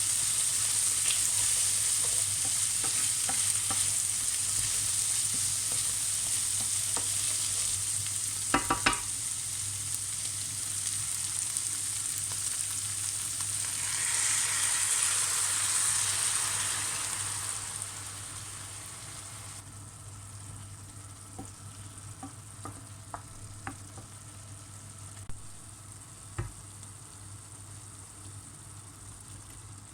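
Food sizzling as it fries in oil in a pan, with a brief clatter of a utensil about 9 seconds in and a few light knocks later on. The sizzle dies down about two thirds of the way through.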